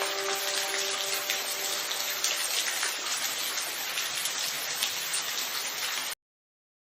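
Steady rain falling, with fine ticks of separate drops in the hiss; a faint held musical tone fades out in the first second or so. The sound cuts off abruptly about six seconds in.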